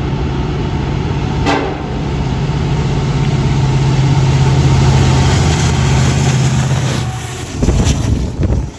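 Union Pacific diesel locomotives hauling a freight train past, their engines droning steadily and growing loudest about halfway through. About seven and a half seconds in, the engine drone drops away and gives way to uneven rumbling.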